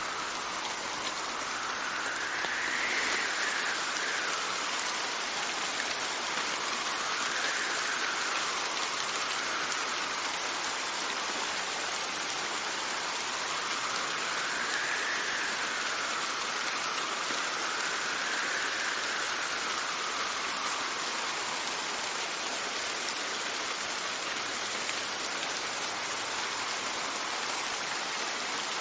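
Steady rain falling, with gusts of wind whose pitch swells up and sinks back several times.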